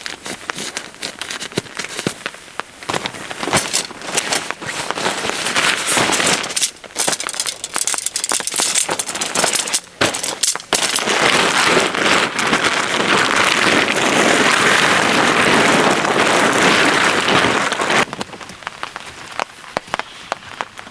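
Rain falling and pattering in crackly drops. About halfway through, a louder, steady hiss of heavier rain sets in for several seconds, then drops off abruptly.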